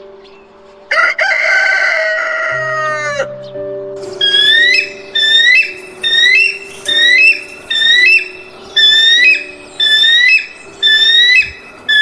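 A rooster crows once, starting about a second in, over background music with steady held notes. From about four seconds in, a short high call that rises and then holds repeats about once a second.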